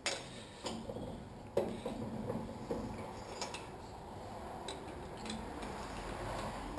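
Scattered light metallic clicks and knocks, about eight of them a second or so apart, from tools and motorcycle fork parts being handled while trying to undo the fork's damper.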